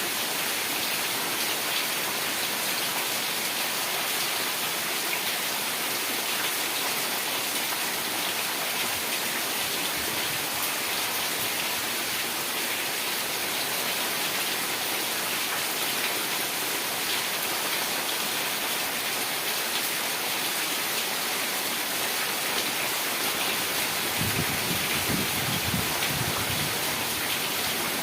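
Heavy rain falling steadily, a dense even hiss of drops. Near the end a brief low rumble rises under it.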